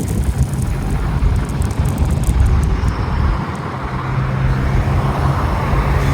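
Car engine running at a steady pitch under heavy road and wind noise, as on a drive along a road.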